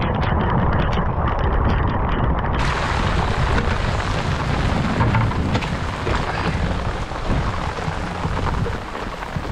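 Steady rain falling, with fine pattering for the first couple of seconds, then a full, even hiss from about two and a half seconds in, over a low rumble of wind on the microphone.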